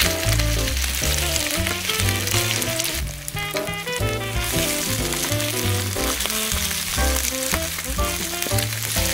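Oyster pancakes sizzling in plenty of hot oil in a frying pan, a steady crackling hiss that drops away briefly about three seconds in. Background music with a repeating bass line plays throughout.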